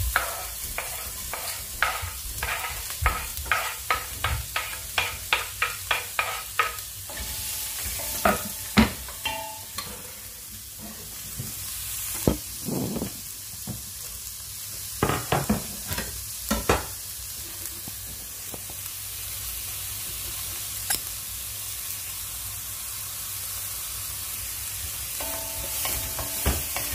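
Chopped onion and garlic sizzling in a little oil in a stainless steel pan. For the first several seconds a quick run of knocks, about three a second, as a knife scrapes the onion off a wooden chopping board into the pan; after that a wooden spoon stirs, knocking against the pan now and then.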